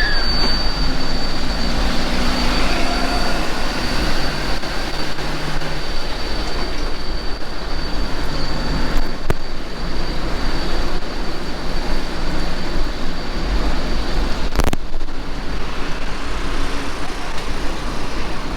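Steady street ambience picked up from a moving bicycle: an even rush of road and wind noise with a low rumble and a faint steady high whine. About fifteen seconds in there is one sharp crackle, the kind of audio crackle caused by the camera's unshielded mic adapter picking up the wifi/Bluetooth transmitter.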